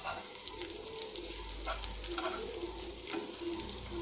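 Aloo tikki patties made from leftover roti sizzling faintly in a little oil in a nonstick pan on a low flame, with scattered small crackles. A steel spoon clicks lightly against the pan as the patties are turned over.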